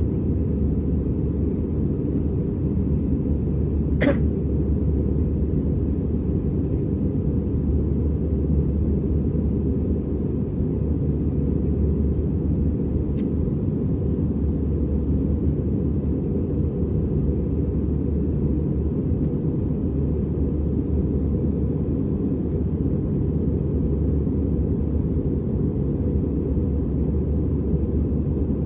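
Steady low rumble of an Airbus A320 in flight, its engine and airflow noise heard from inside the passenger cabin. One short sharp click or knock stands out about four seconds in.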